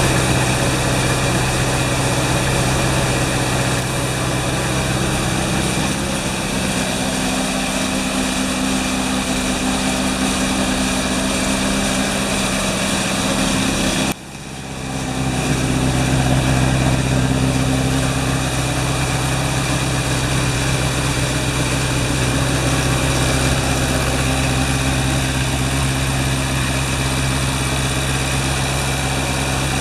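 GS1207 engine running steadily at idle during an engine check. About fourteen seconds in the sound drops sharply for a moment and comes back over the next two seconds.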